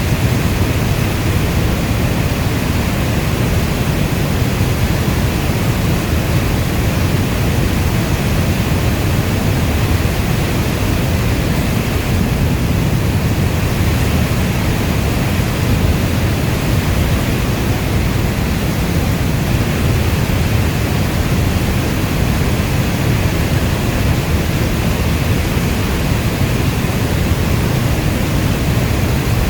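Steady rainstorm noise: an even, unbroken wash of rain with most of its weight in a deep low rumble, and no single drops or thunderclaps standing out.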